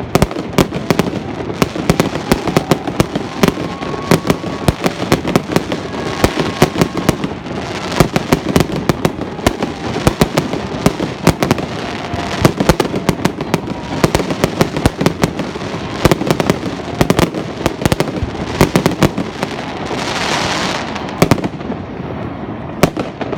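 Fireworks going off nonstop: many sharp bangs a second, close together and overlapping, with a brief hissing rush about twenty seconds in.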